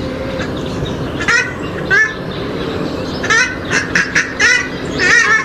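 Swamphens and moorhens (rails) giving loud, harsh, honking calls in short bursts, about half a dozen, with a quick run of calls in the middle. A steady low hum runs underneath.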